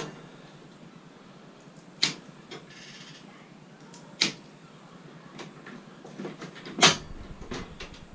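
Pieces of scrap metal knocking and clanking as they are sorted by hand: four sharp clanks about two seconds apart, with lighter clicks and a brief rustle between them.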